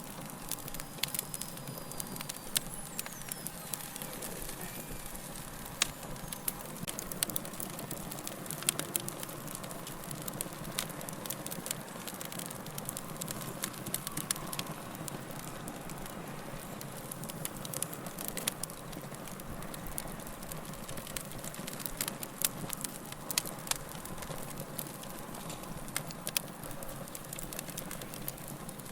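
Log fire burning in a fireplace: a steady rush of flame with frequent sharp, irregular crackles and pops from the burning wood.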